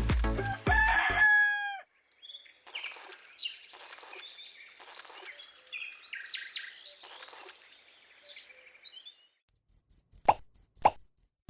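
Chicken and rooster calls, a run of irregular clucks and crowing for several seconds, after a stretch of music; near the end a high pulsing ring with a few sharp clicks.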